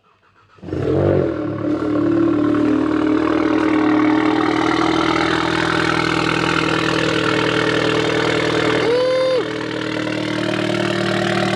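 Volkswagen Golf GTI Mk7's turbocharged 2.0-litre four-cylinder cold-starting: it catches about half a second in, flares up, then settles into a steady, loud fast cold idle.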